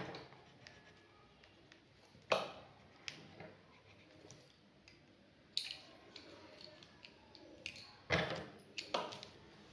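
A few sharp clicks and knocks of drawing tools handled on a desk, with small ticks between them; the loudest come about two seconds in, halfway through and near the end.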